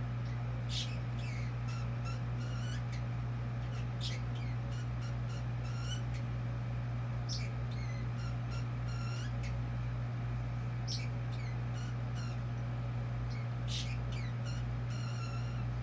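Caged pet bird chattering: a steady run of short chirps and warbles, with a sharper squeak every few seconds, over a constant low hum.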